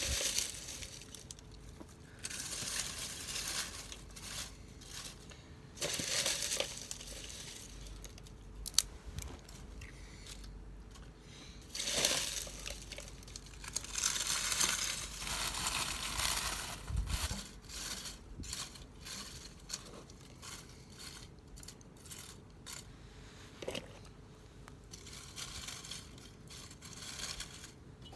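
Crinkling, rustling and scraping in irregular bursts lasting a second to several seconds, with scattered sharp clicks: tinder and kindling being handled while a campfire is lit with a fire starter.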